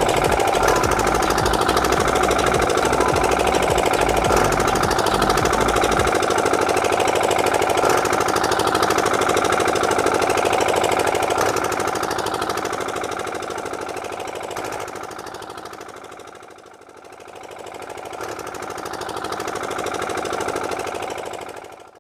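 A small motor running with a fast rattling buzz. It fades away after about eleven seconds, swells back up near the end and then cuts off.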